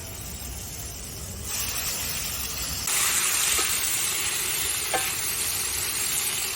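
Food sizzling in hot olive oil in a frying pan. The sizzle grows louder about a second and a half in, and again about three seconds in.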